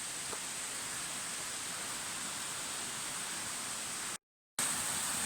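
Steady rushing of a waterfall, with a brief dead-silent gap near the end.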